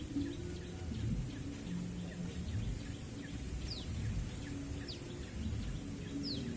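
A small bird calling in short, high chirps that fall sharply in pitch, a few of them spaced about a second apart in the second half, over a steady low background rumble.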